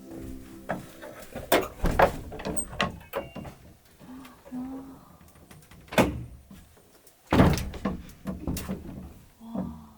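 Irregular knocks and thuds, several in a row, the loudest about seven and a half seconds in.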